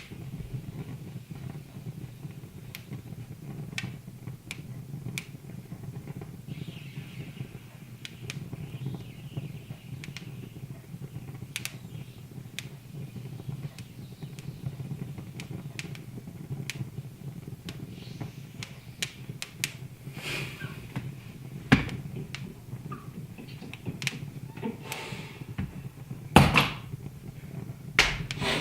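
Wood fire crackling, with scattered sharp pops over a low steady background, and a few louder knocks in the last third.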